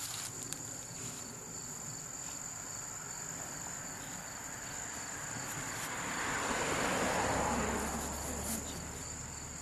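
Insects trilling with a steady high-pitched tone. Midway a broad rushing sound with a low rumble swells up and fades away over a few seconds.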